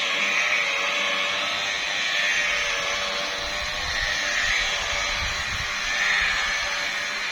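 Electric car polisher running steadily, its pad buffing the painted bonnet in a first polishing pass to smooth rough paint and fine specks. The motor hum stays steady while the rubbing swells a little every couple of seconds.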